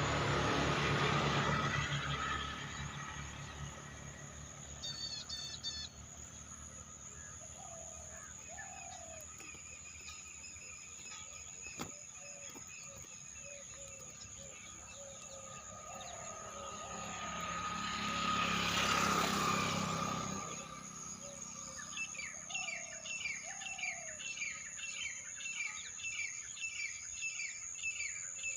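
Birds chirping and calling, with a fast run of repeated chirps in the last several seconds and a steady high-pitched whine underneath. A vehicle passes about two-thirds of the way through, its rushing sound swelling and fading.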